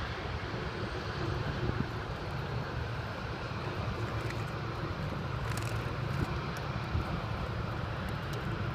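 Air Force One's Boeing 747 jet engines, a steady low rumble with a hiss over it, heard across the airfield.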